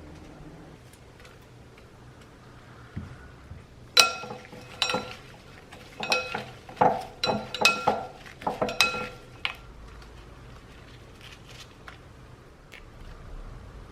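Dishes and cutlery clinking: a run of about a dozen sharp knocks, each with a short ringing tone, from about four seconds in until about nine and a half seconds in.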